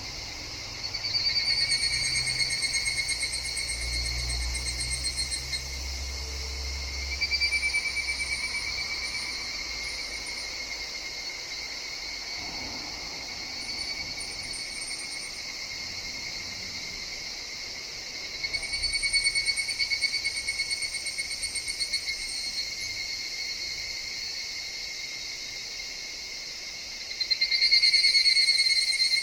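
Higurashi (evening cicadas) calling: a steady high, rapidly pulsing chorus that swells louder in waves about four times as individual calls rise and fade. A faint low rumble sits under it in the first few seconds.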